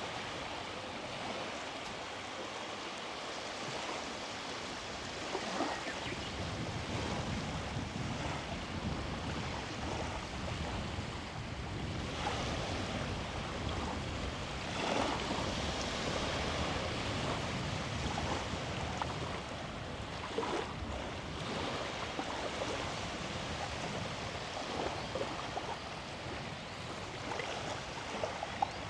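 Small waves washing onto the beach: a steady surf hiss with a few louder swells.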